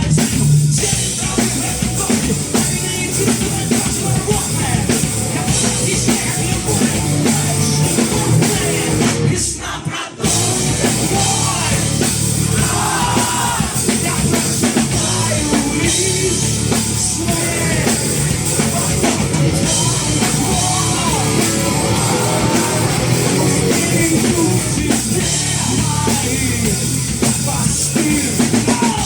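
Rock band playing live, with drum kit, guitars and singing. The sound breaks off for a moment about ten seconds in, then carries on.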